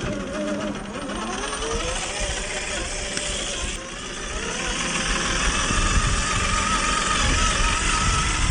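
Axial SCX10 III rock crawler's 45-turn 540 brushed motor and gearbox whining as it drives. The pitch rises and falls with the throttle over the first couple of seconds, and the sound grows louder and rougher from about four seconds in.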